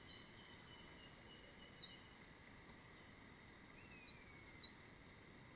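A small bird calling from the riverside trees: a sharp chirp about two seconds in, then a quick run of four chirps near the end, over a faint steady hiss.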